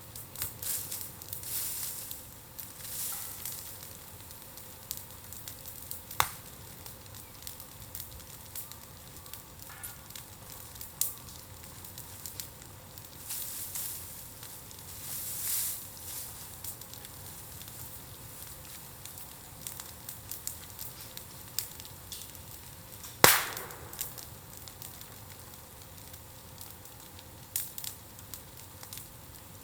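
Burning bamboo in an open bonfire crackling, with scattered sharp pops and snaps, the loudest a little over two-thirds of the way through. A few short hissing spells come as the bamboo burns.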